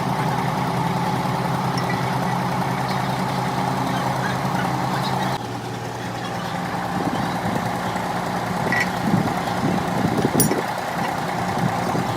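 An engine running steadily at idle. Its sound shifts abruptly about five seconds in, and voices join it in the second half.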